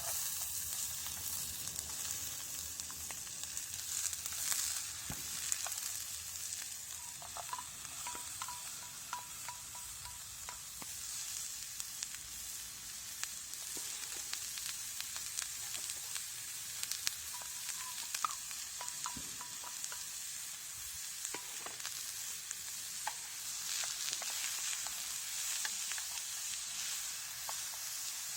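Food sizzling and frying steadily in an aluminium mess tin, with scattered sharp pops and a few brief light metallic clinks.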